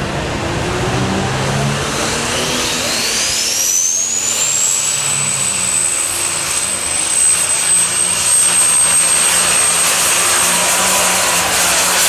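Super stock pulling tractor's turbocharged engine spooling up: a whine climbs over about three seconds to a high, steady whistle that holds over the loud engine.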